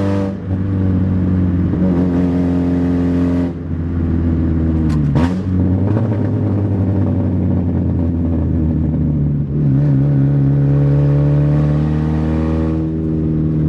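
1993 Saturn SW2's 1.9-litre twin-cam four-cylinder running open from the exhaust manifold, with no pipes after it. It revs up under hard acceleration and drops back at gear changes several times.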